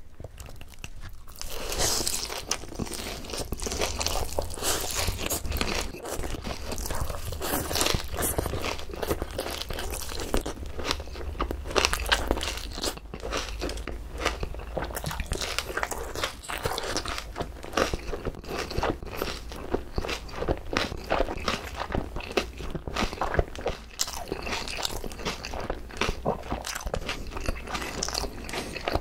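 Close-miked crunching and chewing of crispy boneless fried chicken with shredded green onions. A dense, continuous run of crisp crackles starts about two seconds in.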